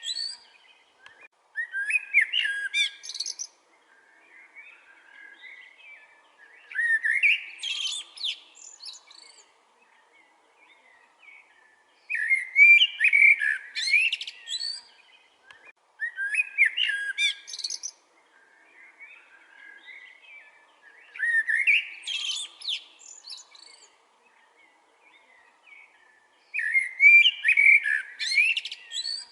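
A songbird singing loud, twittering song phrases of about two seconds each, repeated six times with pauses of a few seconds between them, and faint chirps in the gaps.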